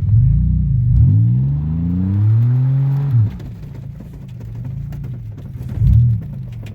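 Buick 3.1 V6 engine with its exhaust torn off, revved in bursts. It revs up at once, dips about a second in, climbs again and drops back about three seconds in, runs lower for a while, then gives one short rev near the end.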